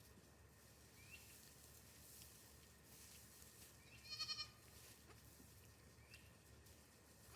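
A goat bleats once about four seconds in: a short, high, wavering bleat.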